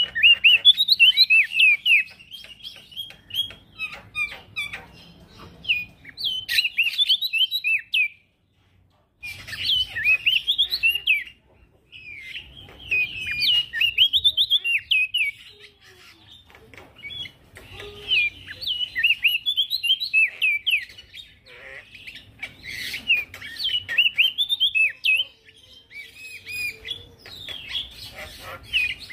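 A male prenjak daun sings in bouts of rapid, high chirping warbles. The phrases are broken by short pauses, and the song cuts out completely for about a second near the quarter mark.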